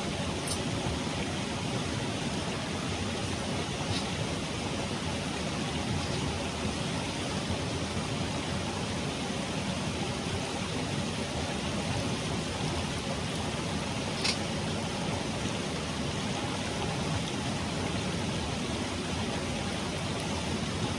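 Mountain stream rushing steadily over rocks, with a few faint clicks, the clearest about 14 seconds in.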